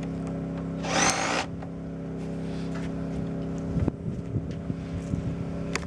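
A steady motor hum runs throughout, with a short power-drill run about a second in and a few light knocks in the second half.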